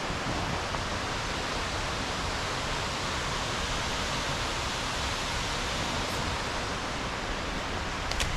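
Waterfall rushing steadily: a constant, even wash of falling water, with a couple of light clicks near the end.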